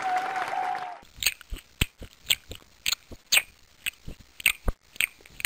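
Crowd noise that stops abruptly about a second in, followed by a person chewing crunchy food: sharp separate crunches, about two to three a second.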